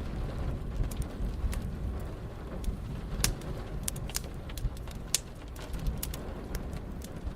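Wood fire crackling, with irregular sharp pops several times a second, over a steady low rumble of rain and distant thunder.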